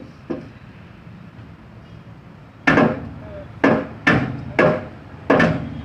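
Hammer blows on a truck's side panel during repair: two light knocks at the start, then five loud strikes beginning about halfway through, each half a second to a second apart.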